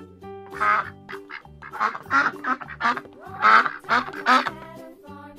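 A duck quacking repeatedly, about six quacks, over children's music with a steady bass beat.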